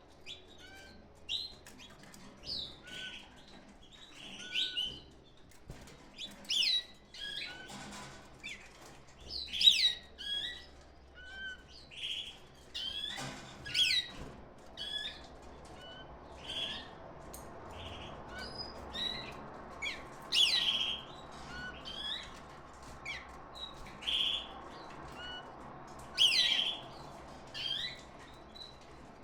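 Canaries chirping and calling: many short, irregular chirps from several birds.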